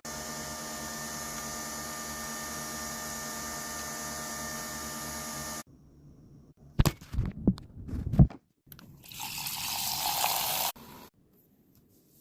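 Nespresso Vertuo coffee machine running steadily as it brews a pod, a hum with several steady tones that stops about five and a half seconds in. A few sharp knocks follow, then a short hiss of under two seconds.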